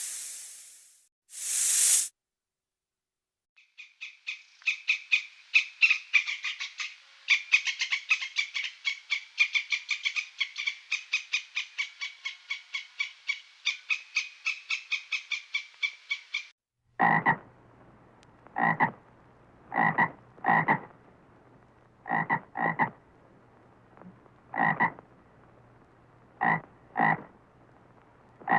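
Frogs croaking: a fast, continuous run of repeated croaks for about thirteen seconds, then, after a break, separate croaks about once a second, often in pairs, over a low hum. A short hiss sounds at the very start.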